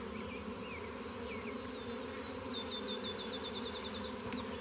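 Honeybees buzzing steadily from an opened hive during a frame-by-frame inspection.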